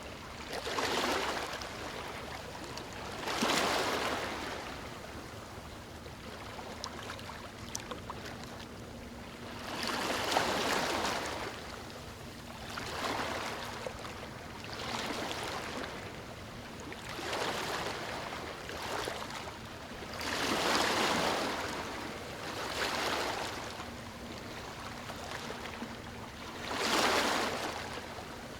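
Ocean surf on a beach: waves breaking and washing up the shore, each rush of water swelling and fading, one every two to four seconds.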